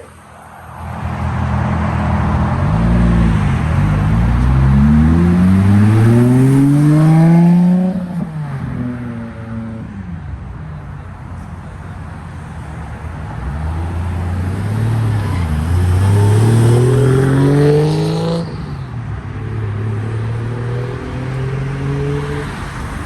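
Car engines accelerating hard, pitch climbing steadily for several seconds before lifting off about eight seconds in; a second hard pull climbs from about fourteen seconds and cuts off sharply near eighteen seconds.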